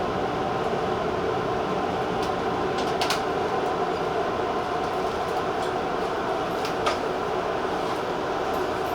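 A Tobu 50090-series TJ Liner electric train running steadily on the rails with a constant hum. A few sharp clicks from the wheels crossing rail joints or points come about two and three seconds in, and again near the seventh second.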